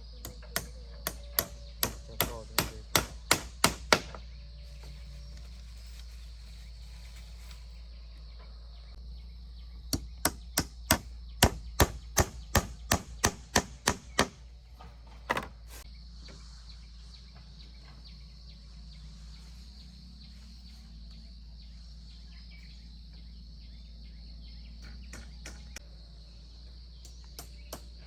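Two runs of quick, sharp hand-tool strikes, about three a second, each run getting louder, with a lone strike a little after the second run. A steady high insect buzz lies underneath.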